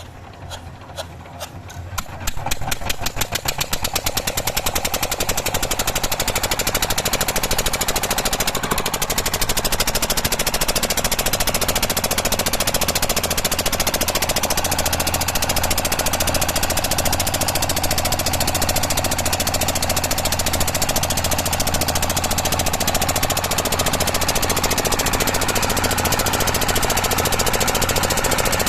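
Boat engine starting up: separate knocks that quicken over the first two seconds, then running steadily at a fast, hard knocking beat.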